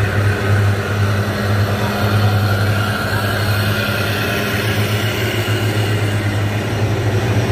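A heavy truck's diesel engine runs with a steady, loud low drone at an even pitch.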